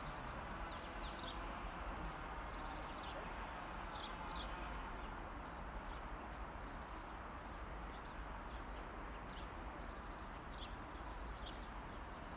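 Small birds chirping: scattered short, high chirps over a steady background noise.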